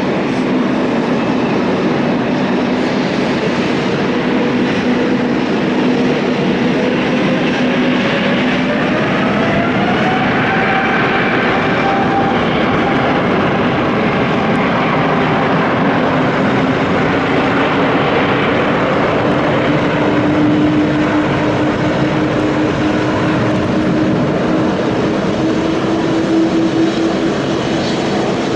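Jet airliner's engines running loud during takeoff, with their whine climbing in pitch partway through as the engines spool up.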